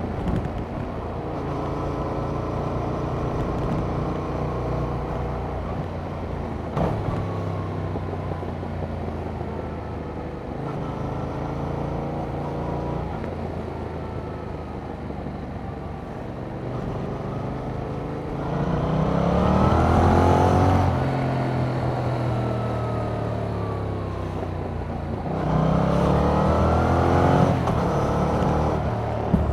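Yamaha MT-07's parallel-twin engine heard from on board through its stock exhaust, its pitch rising and falling as it accelerates and shifts through the gears. It gets louder in two hard pulls, one about two-thirds of the way in and one near the end.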